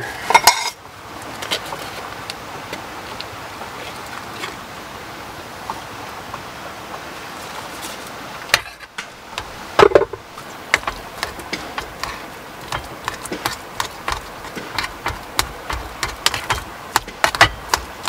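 A metal spoon mashing boiled potatoes in an aluminium pot, knocking and scraping against the pot in quick, irregular clinks that start about ten seconds in and come thicker near the end. A steady hiss runs beneath, and alone for the first half.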